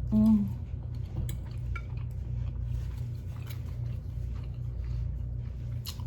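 Eating at close range: a fork or spoon clinking on a plate and chewing, as scattered small clicks over a steady low hum. A brief hummed voice sound comes right at the start and is the loudest moment.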